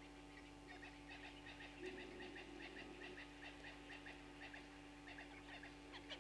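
Faint bird calls in the bush: a rapid run of short, high notes, about five a second.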